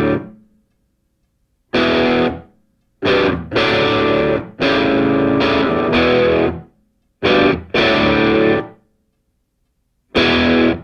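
Rock music on distorted electric guitar: chords struck in short stabs and longer held blocks, each cut off abruptly, with brief silences between them.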